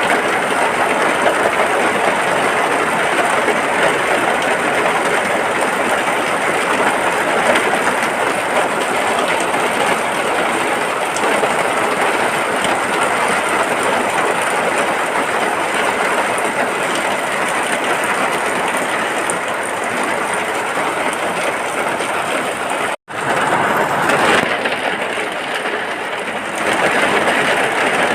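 Steady heavy rain falling on a hut, an even, dense hiss. It cuts out completely for a split second about three quarters of the way through, then returns slightly duller for a few seconds.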